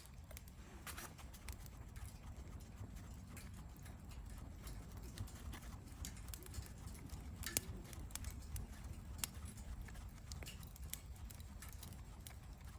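Wood fire crackling: scattered small pops and snaps at irregular intervals over a low steady rumble, with one louder pop about seven and a half seconds in.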